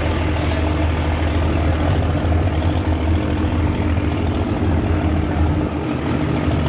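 A vehicle engine idling steadily with a deep, even rumble.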